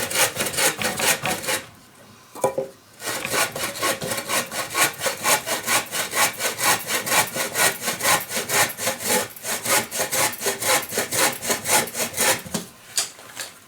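Hand saw cutting through wood in quick, even back-and-forth strokes. The sawing pauses for about a second near the two-second mark, then carries on.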